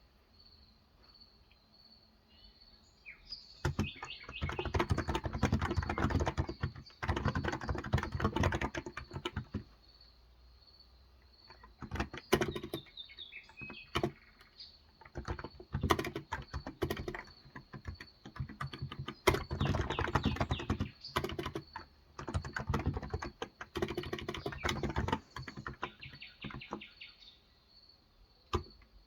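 Typing on a Cox Endeavour electrostatic-capacitive (no-contact), 35 g tenkeyless keyboard. It comes in bursts of quick keystrokes with pauses between them, starting about three and a half seconds in, again around twelve seconds and again around nineteen seconds. Birds chirp in the background.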